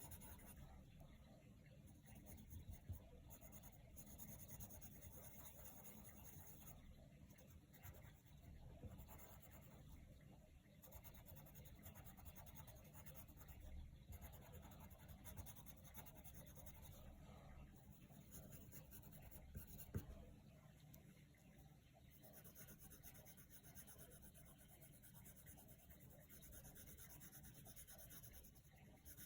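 Coloured pencil scratching faintly on paper in steady strokes, with two light taps, one a few seconds in and one past the middle.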